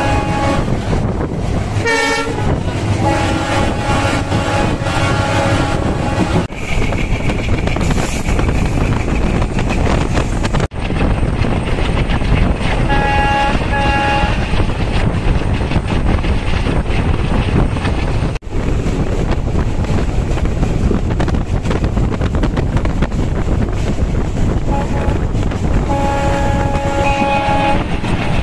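Passenger train running at speed, heard from an open coach door as steady wind and wheel noise. The locomotive's horn sounds long blasts near the start, a shorter pair about halfway, and another long blast near the end.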